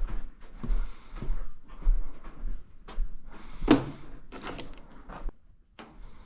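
A series of irregular knocks and rustles, with a steady high-pitched whine that stops about five seconds in.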